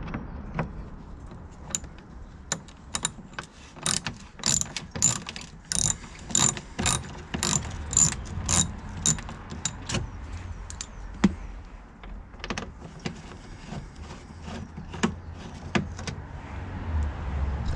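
A hand ratchet clicking in repeated runs while the fasteners of a car's plastic engine undertray are undone, with scattered sharp knocks. The clicks are densest in the first half and thin out later.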